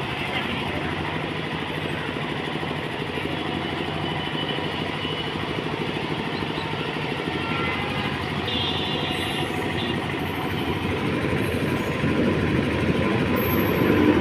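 An approaching express train passing through a station without stopping: a steady rumble that grows louder, most clearly in the last couple of seconds.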